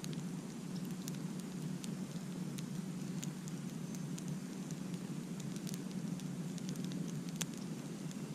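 Campfire crackling: irregular sharp snaps and pops of burning wood over a steady low background noise.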